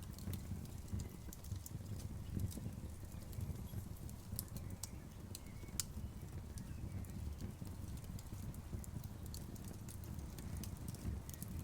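Outdoor wood bonfire crackling: frequent sharp pops and snaps of burning wood over a steady low rumble of the flames.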